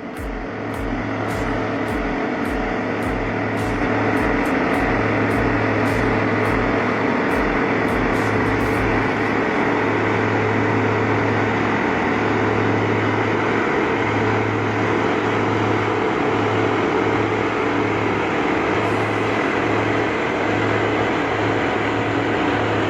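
Steady heavy vehicle engine running, with a low hum that comes and goes.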